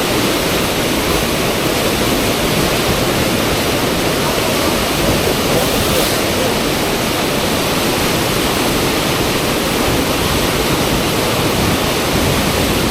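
Loud, steady rush of fast-flowing river water at a standing wave used for river surfing.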